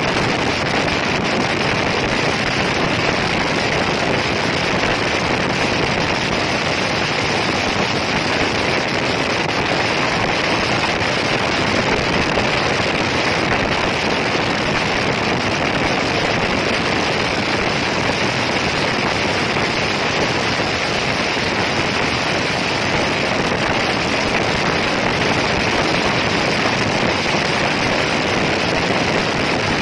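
Yamaha NMAX 155 scooter's single-cylinder engine held at top speed, heard under a steady, even rush of wind and road noise with no rise or fall.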